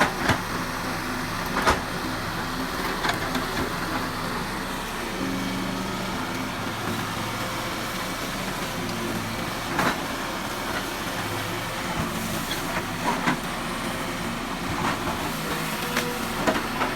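Excavator's diesel engine running steadily, its pitch shifting a little, with sharp clanks or knocks every second or few seconds.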